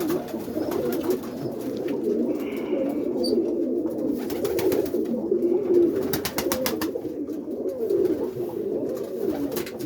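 Several roller pigeons cooing together in the coop: a continuous, overlapping low cooing. A quick run of sharp clicks comes about six seconds in.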